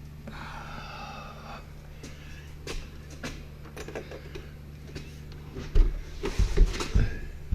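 Clicks and knocks, then a run of heavy thumps near the end, as a wooden garage door is worked back onto its hinges. A short wavering squeak comes about half a second in.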